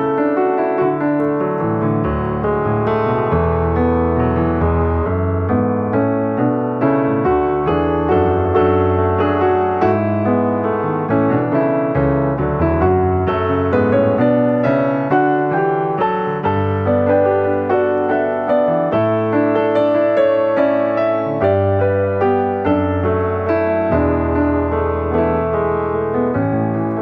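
Background piano music: a continuous melody over sustained low bass notes.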